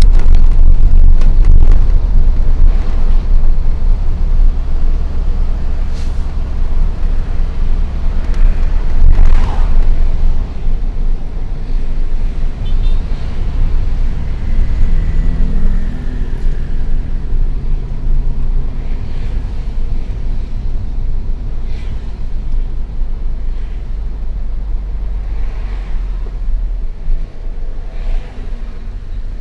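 Diesel engine of a Hino FL 260 JT truck hauling a heavy load, running with a strong low rumble. From about halfway a steady engine tone comes through, and the rumble slowly eases toward the end.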